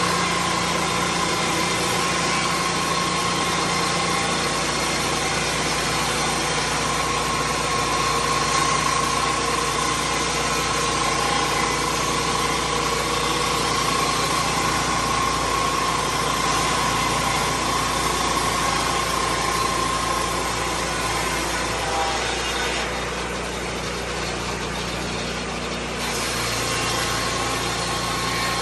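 Engine of a Lucas Mill 10-30 swing-blade sawmill running steadily, with a steady whine over it. The whine fades out about twenty-one seconds in, and the sound dips for a few seconds before picking back up near the end.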